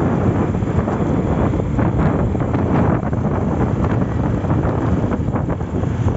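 Heavy wind buffeting on the microphone: a loud, steady rumbling rush without a break.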